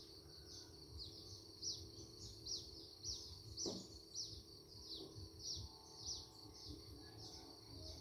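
A small bird calling: short, high, falling chirps repeated about twice a second over faint outdoor background noise. A single soft knock is heard a little before halfway.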